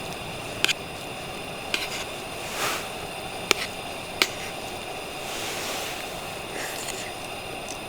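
Wood fire burning in a Picogrill, a steady rushing crackle with four sharp pops spread through it.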